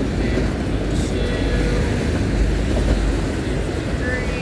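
Loaded autorack cars of a long freight train rolling past, the wheels on the rails making a steady low rumble, with faint high squeals now and then.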